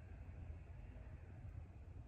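Quiet background: a steady low rumble with a faint even hiss, and no distinct sounds.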